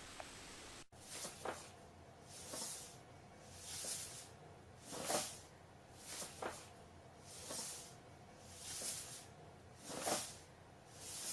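A series of about nine faint breathy hisses, evenly spaced at roughly one every second and a quarter, starting after a sudden cut about a second in.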